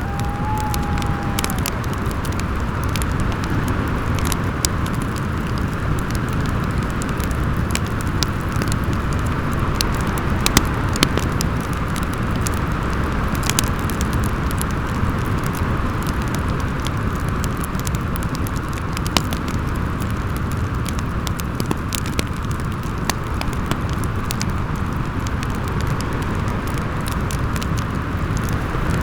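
Fireplace crackling with scattered sharp pops over a steady rush of howling wind. A short whistling tone rises and holds near the start.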